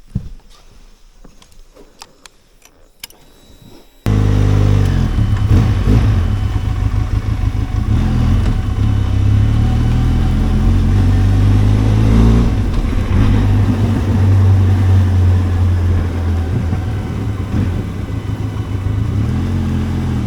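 A few faint clicks, then, about four seconds in, a Benelli TRK 502X motorcycle's parallel-twin engine cuts in loud and keeps running steadily, its pitch rising and falling a little.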